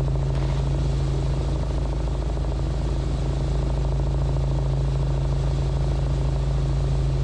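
Robinson R44 helicopter in flight, heard from inside the cabin: a steady drone of engine and rotor with a strong low hum and a fast, even pulsing.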